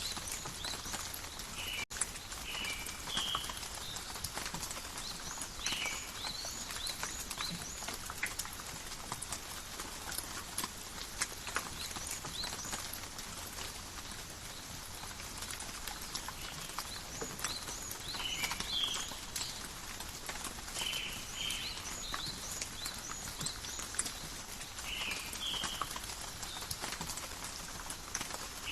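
Steady, calm rain in a forest, a continuous hiss with many small drops ticking and pattering. Short high animal calls come through every few seconds.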